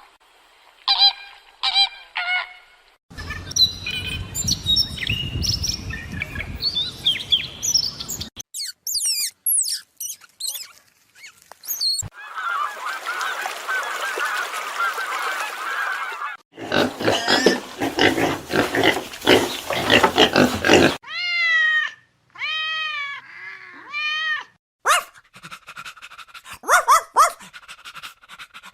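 A string of short recordings of different animal calls cut one after another, every few seconds a new animal; honking and quacking waterfowl are among them, alongside bird chirps and noisier stretches.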